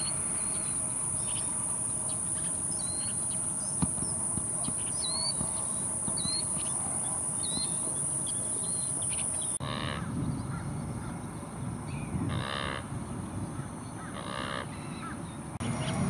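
Wild birds calling: a run of short, high chirps through the first half, then, after a cut, three louder calls about two seconds apart.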